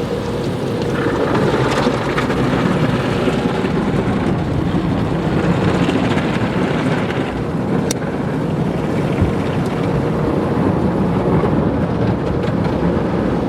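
Automatic tunnel car wash heard from inside the car's cabin: spinning cloth brushes and water spray working over the body and glass, a steady rushing churn.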